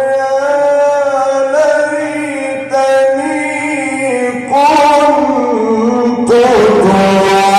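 A man's voice chanting in the high 'jawab al-jawab' register, long ornamented notes held and bent slowly in pitch. It grows louder about two-thirds of the way in and again near the end.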